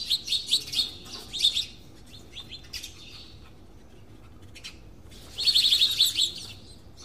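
Small birds chirping: quick runs of rapid, high chirps in the first second or so, a few scattered chirps, then the loudest dense burst of chirps about five and a half seconds in.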